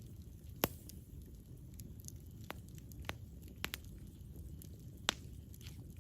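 Campfire burning: a steady low rumble with irregular sharp crackles and pops, two louder snaps about half a second in and near the end.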